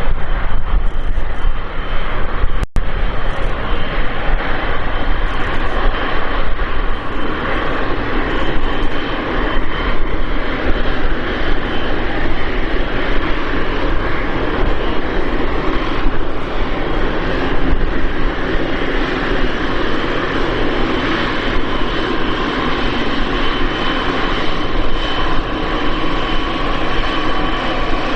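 Jet engines of a Boeing 777 freighter running, a continuous loud rush with a steady engine whine that grows plainer near the end.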